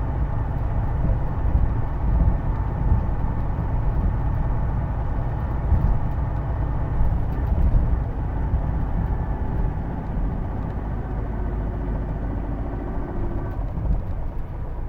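Hino Blue Ribbon II city bus heard from inside the passenger cabin, its diesel engine and drivetrain running as it drives along. The transmission gives a distinctive whine that makes it sound like an automatic, and this noise is why the bus is known as an odd-sounding one.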